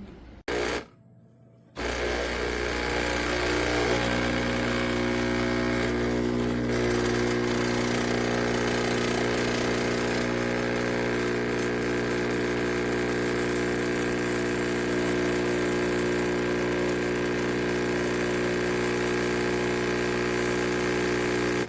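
An electric kitchen appliance's motor or pump running with a steady, loud buzzing hum. It starts abruptly about two seconds in, after a brief loud burst.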